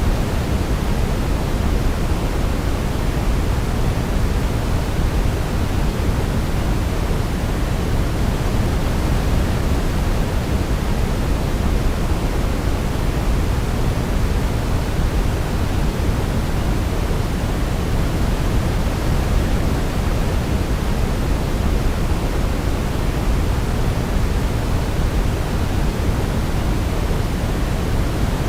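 Steady sleep-aid noise, an even hiss with no melody, deeper than pure white noise and weighted toward the low end like pink noise.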